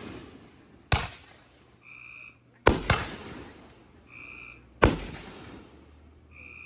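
Fireworks going off: four sharp bangs, each with a trailing echo, the second and third only a fraction of a second apart.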